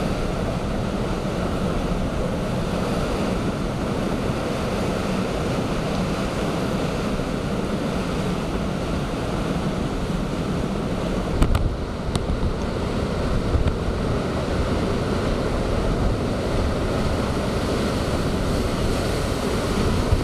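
Heavy storm surf and strong typhoon wind making a steady, dense roar, with gusts buffeting the microphone a little past halfway.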